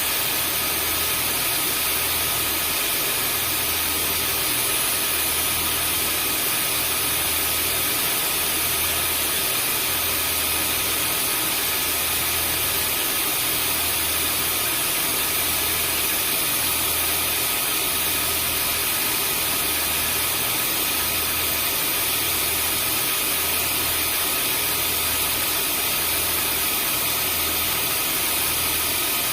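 Vacuum cleaner motor running steadily: a constant rushing noise with several steady high tones on top, and a low hum that pulses about every one and a half seconds.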